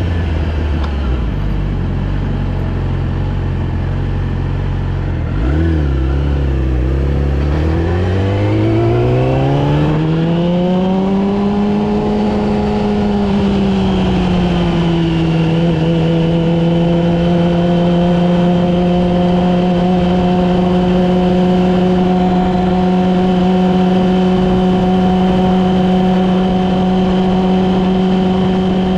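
Yamaha R6 inline-four engine under way: revs low for the first several seconds, then climb smoothly from about eight seconds in, ease off a little and hold steady at a cruising speed.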